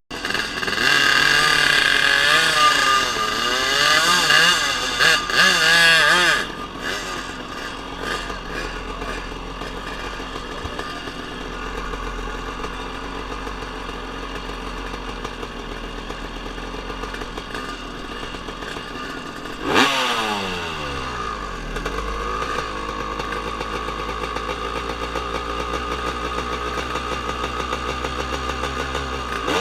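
Drag-racing motorcycle engines revving hard, the pitch swinging up and down for about six seconds, then running more steadily. About twenty seconds in a sharp burst is followed by an engine note falling away.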